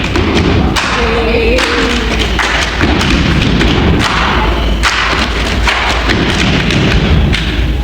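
Loud low rumbling with repeated thuds throughout.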